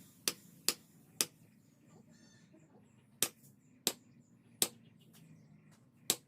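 Blacksmith's hammer striking metal: seven sharp blows, a quick run of three, a pause, another three, then one more near the end.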